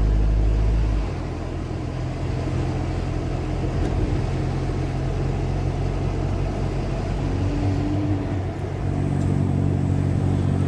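Car engine and road noise heard from inside the moving car: a steady low hum whose pitch shifts about a second in and again near the end.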